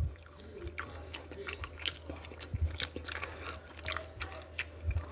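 A person chewing a mouthful of teriyaki chicken close to the microphone: an irregular string of small mouth clicks.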